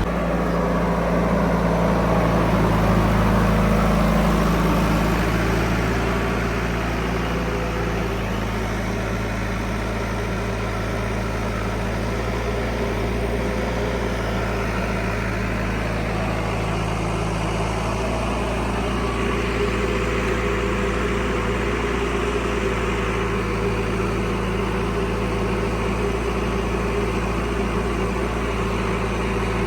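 Diesel engine of heavy machinery running steadily with a low rumble, a little louder for a few seconds near the start.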